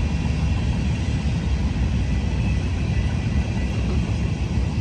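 Steady low outdoor rumble, with faint steady high tones above it and no sudden events.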